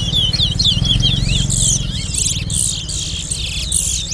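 Towa-towa finch singing a competition song: a fast run of twittering whistled notes that changes about a second and a half in to a string of buzzy, rasping phrases. A steady low rumble runs underneath.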